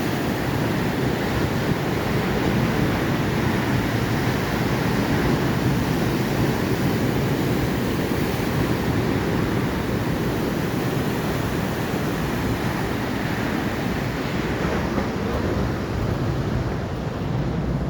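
Atlantic Ocean surf: waves breaking and washing onto the shore in a steady, continuous rush.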